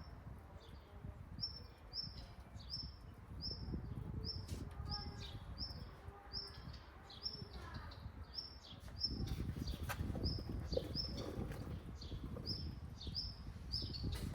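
A bird calling with a short, high, slightly falling chirp, repeated about twice a second, over a low rumble that grows louder about nine seconds in, with a few sharp clicks.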